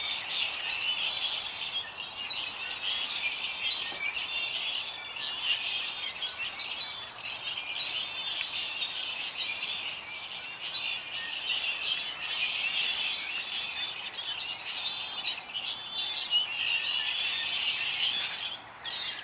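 Many small songbirds chirping and twittering together in a dense, unbroken chorus of short high chirps.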